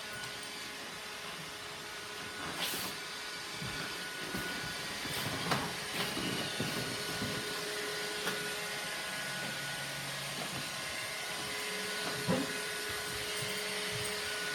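Roomba robot vacuum cleaner running, a steady whirring hiss with a faint hum, broken by a few short knocks.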